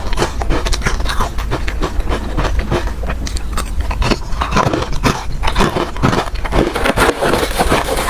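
Ice being bitten and crunched between the teeth, close to the microphone: a rapid, continuous run of sharp crunches and cracks, several a second.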